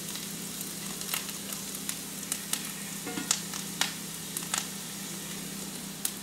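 Wild mushrooms frying in hot butter in a cast-iron skillet: a steady sizzle with scattered pops and crackles as their water cooks off and they begin to crisp.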